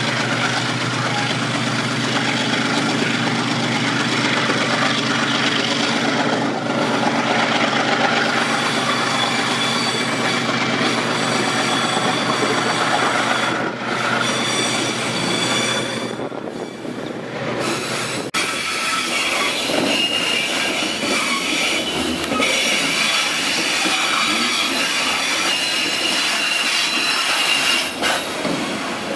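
Diesel freight locomotive running past, followed by a long train of loaded hopper and box wagons whose wheels squeal against the rails on a curve. About 18 seconds in the engine's drone drops away and the wheel squeal comes to the fore. The wheel-on-rail friction is taken as a sure sign that the wagons are loaded with grain.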